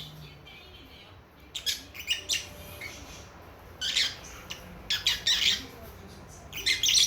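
Young lovebirds, a few months old, giving short, sharp high-pitched chirps and squawks in several quick clusters with pauses between.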